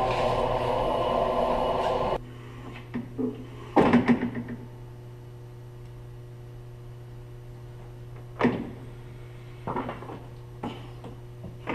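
A lift truck running cuts off abruptly about two seconds in, leaving a low steady hum and a few scattered knocks and clunks.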